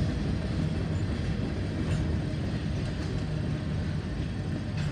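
Freight train of covered hopper cars and a tank car rolling past: a steady low rumble of steel wheels on the rails.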